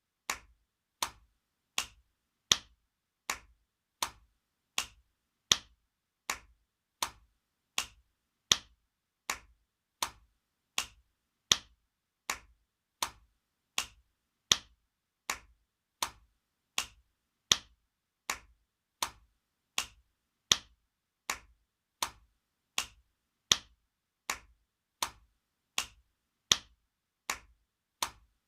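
Spanking sound effect: sharp open-hand slaps, evenly repeated about four every three seconds, every fourth one a little louder, as in a short looped sample.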